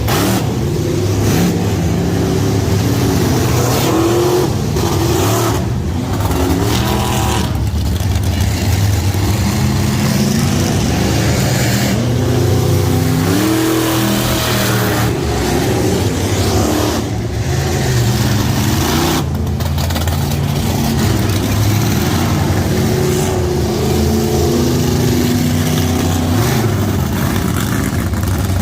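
Monster truck engines running loud and revving hard, the pitch climbing and falling again and again.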